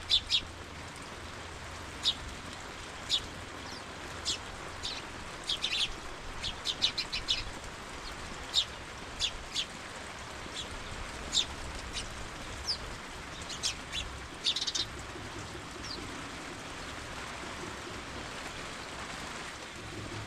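Birds giving short, high chirps, scattered irregularly and dying out near the end, over a steady hiss of rain.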